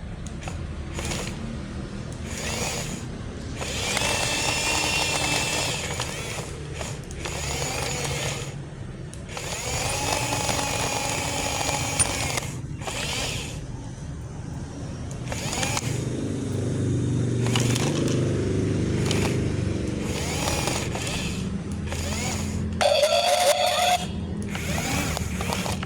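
Small electric motors of a toy excavator whining in repeated bursts of a few seconds each, with short pauses between, and a brief louder gliding whine near the end.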